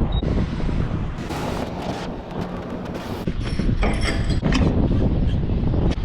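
Steady low mechanical rumble with wind buffeting the microphone, and two brief hissing bursts, one about a second in and one about three seconds in.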